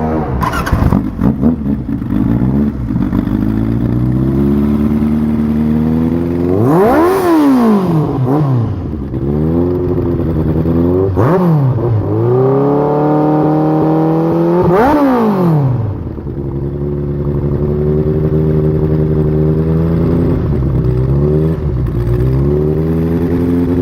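Kawasaki Zephyr1100's air-cooled inline-four engine idling through its exhaust, blipped three times with sharp revs that rise and fall back to idle about 7, 11 and 15 seconds in, with a couple of smaller blips between.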